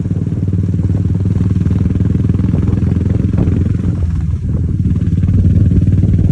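Motorcycle engine running steadily while riding, a little louder near the end.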